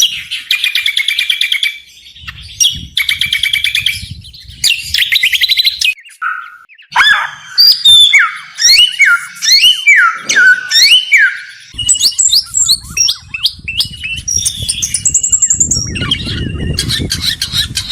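Small songbird singing in fast, varied phrases: rapid trills at first, then a run of loud whistled notes that slide up and down, then high, thin chirps. A low rumble lies underneath, strongest near the end.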